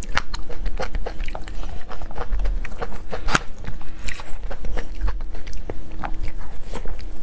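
Close-miked chewing and biting of cake: rapid, irregular wet mouth clicks and smacks, over a faint steady hum.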